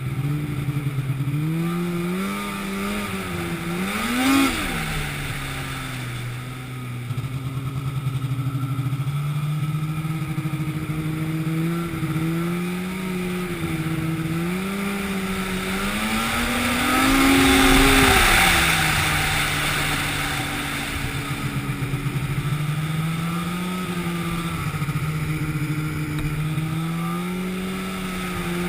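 An engine running continuously, its pitch wandering up and down. It rises briefly about four seconds in and again, more strongly, around eighteen seconds in, where it is loudest.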